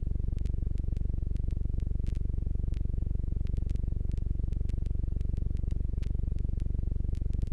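Jabiru J120's four-cylinder engine and propeller running steadily with an even, rapid throb.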